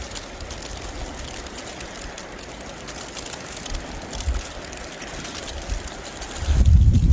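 Footsteps crunching in fresh snow. Near the end, a loud low rumble of wind buffeting the microphone comes in.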